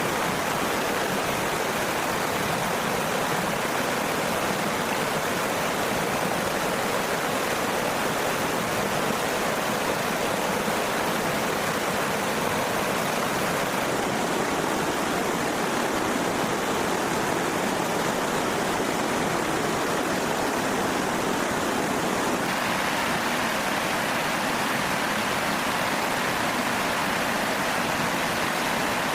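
Steady rushing of running water, even and unbroken, its tone shifting abruptly twice along the way.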